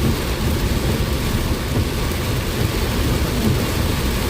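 Heavy rain drumming steadily on a moving car, heard from inside the cabin, over a low steady rumble of road and engine noise.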